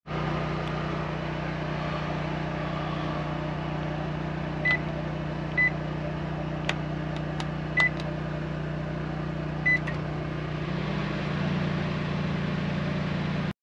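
Microwave oven humming steadily, with four short, high keypad beeps spaced over several seconds, a few faint clicks, and the hum growing heavier near the end.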